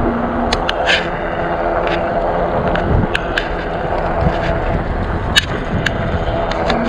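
E-bike rolling over pavement: a steady rumble of tyres on the road mixed with wind, with sharp clicks and rattles from the bike at irregular moments, about seven in all.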